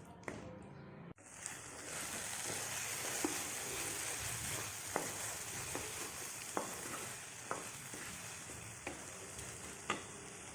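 Masala gravy sizzling in a hot pan while being stirred, with a spatula scraping and tapping against the pan every second or so. About a second in the sound breaks off and the sizzle comes back louder.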